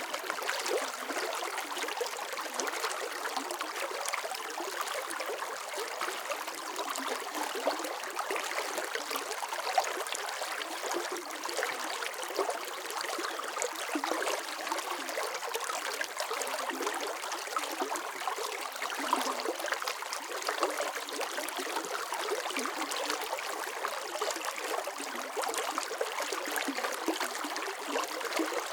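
Running water flowing and trickling steadily, a bright babbling with many small splashes and no deep rumble.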